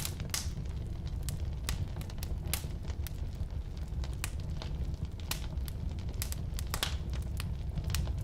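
Firewood burning in a fireplace: a steady low roar of the flames with sharp, irregular crackles and pops of the wood, several a second, a few louder ones near the start and about two-thirds of the way through.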